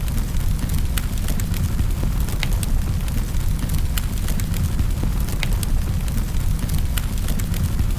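Wood fire crackling in a fireplace: a steady low rumble of the flames, with a sharp pop about every second over fainter crackles.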